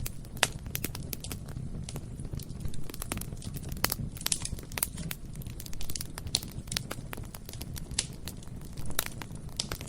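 Bonfire burning with a low, steady rumble of flame and frequent irregular crackles and sharp pops of burning wood.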